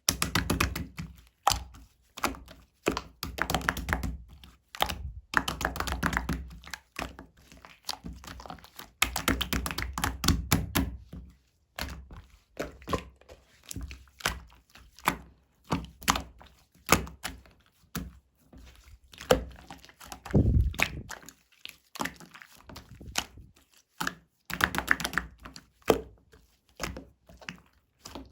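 Slime being pressed and squished by hand: bursts of crackly popping clicks mixed with soft low thuds, stopping and starting every second or two.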